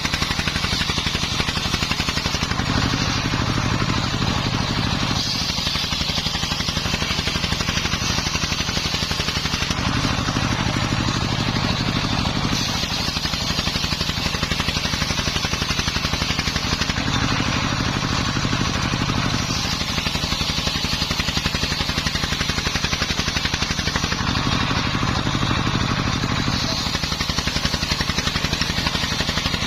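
Single-cylinder Dongfeng 24 hp diesel engine running steadily, driving a homemade circular saw. Four times, about every seven seconds, the sound fills out and grows heavier for two to three seconds as the blade takes a cut through the timber.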